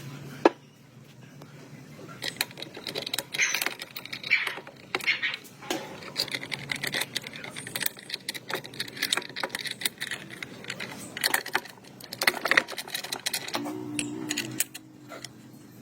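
Small metal parts and hand tools clinking, tapping and scraping in irregular short strokes, with one sharp click about half a second in and a brief low hum near the end.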